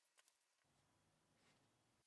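Near silence: faint room tone with a couple of soft ticks.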